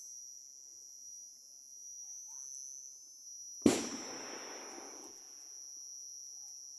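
A single firework (foguete) bang a little past halfway through, followed by a rumbling echo that fades over about a second and a half. A steady high-pitched insect trill runs underneath.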